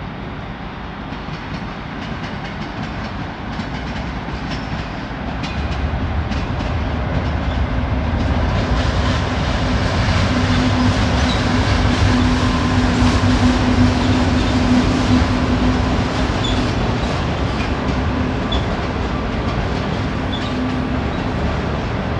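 Pacific National NR class diesel-electric locomotive hauling a passenger train across a steel truss bridge: the engine's steady drone builds from about a quarter of the way in and is loudest around the middle as the locomotive crosses, then the carriages roll on with rhythmic wheel clicks on the rail joints.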